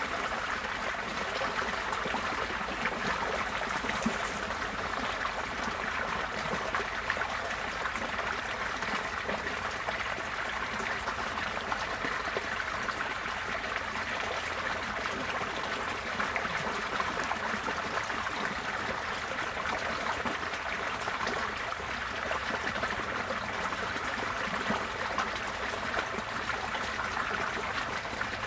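Receding floodwater running steadily, a continuous even sound of flowing water.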